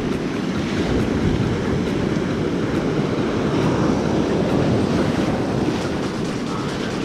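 Steady rush of ocean surf on a beach, with wind rumbling on the microphone.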